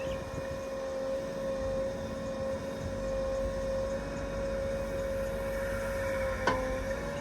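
A diesel earthmoving machine running steadily with a constant whine over the engine rumble, and one sharp clank about six and a half seconds in.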